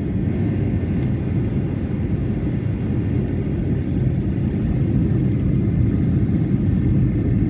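Steady low rumble inside an airliner's cabin during the descent on approach to landing.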